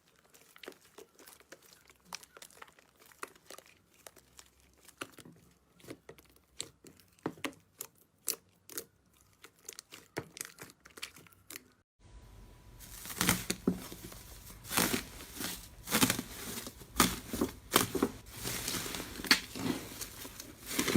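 Slime being pressed and stretched by hand, giving an irregular run of small crackles and pops. About twelve seconds in it jumps to a louder, denser stretch of crackling.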